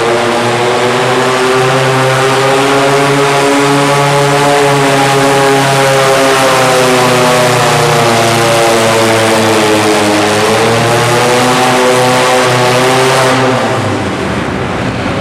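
Antique pulling tractor's engine running loud and hard under load, its pitch sagging and then climbing again. Near the end the engine sound drops off sharply.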